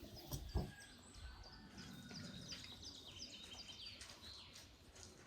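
Small birds chirping: many short, high chirps repeating over a faint background, with a couple of soft knocks in the first second.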